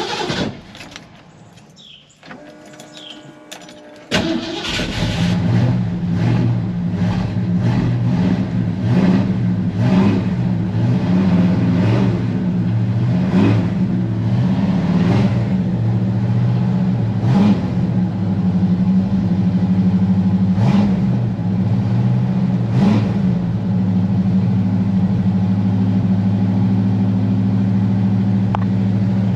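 1980 Ford F-150's 400 cubic-inch V8 cold-starting: after a few quieter seconds it fires about four seconds in and then settles into a steady idle.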